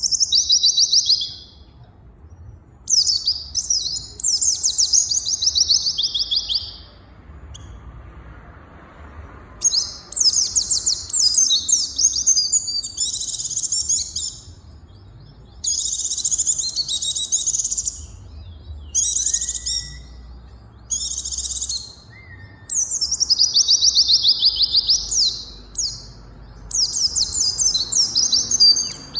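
Songbird singing in repeated bursts of rapid, high-pitched chirps, many phrases sliding downward in pitch, with short pauses between them.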